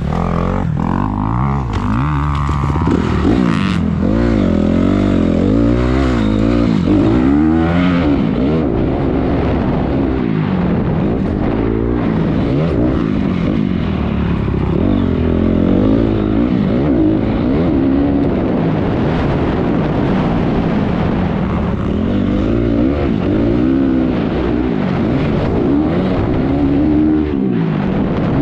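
Honda 250R motocross bike's single-cylinder engine racing on track, its pitch rising and falling over and over as the throttle is opened and closed and the gears are worked.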